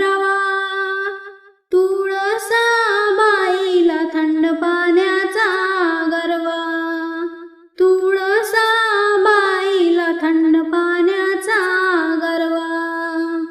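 A woman singing a Marathi devotional ovi to the tulsi plant, solo voice with no instruments, in three long phrases with two short breaths between them; the song ends near the end.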